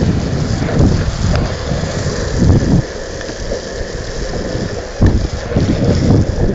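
Wind buffeting the microphone of a longboarder riding on wet pavement, over a steady wet hiss. The buffeting eases about three seconds in and comes back strongly about two seconds later.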